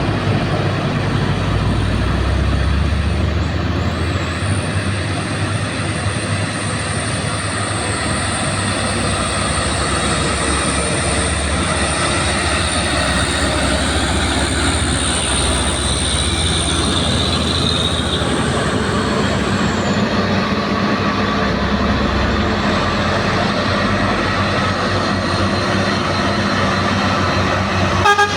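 Old truck's engine labouring up a steep hill: a continuous low drone whose pitch shifts now and then, with a faint high whine over it that fades out about two-thirds of the way through.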